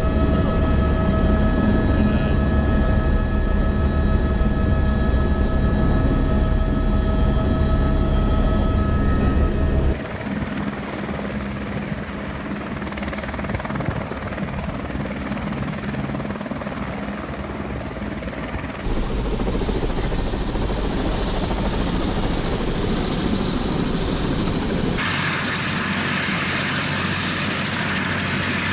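Helicopter running in flight: steady rotor and turbine noise with a high whine. The sound changes abruptly in loudness and tone three times, about a third of the way in, two thirds in, and near the end.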